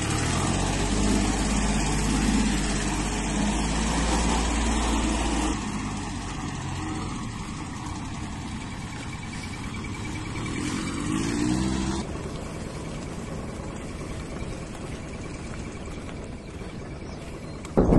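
VST Shakti MT 224-1D mini tractor's diesel engine running. It is loud and steady at first, then drops sharply to a quieter running sound after about five seconds. A brief rise in pitch comes a little past the middle.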